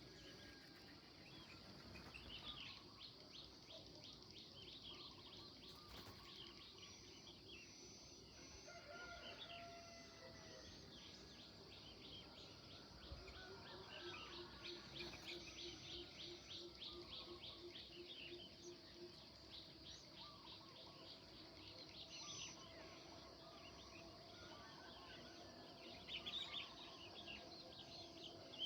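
A mixed chorus of birds chirping and singing, faint, with rapid chirp trills and short whistled notes overlapping throughout.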